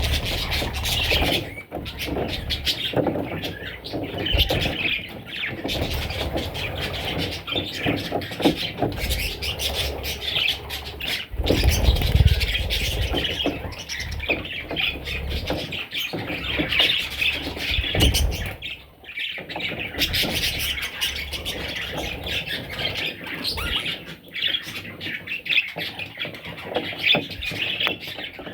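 Pet budgerigars chattering and squawking without a break, with a couple of low rumbles partway through.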